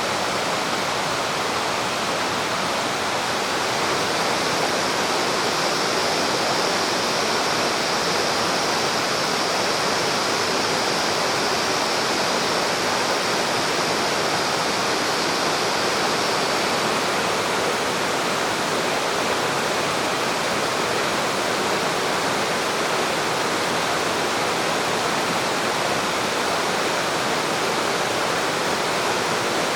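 Spring-fed mountain stream rushing steadily over rocks. A thin, higher hiss sits on top of the flow from about three seconds in until roughly halfway through.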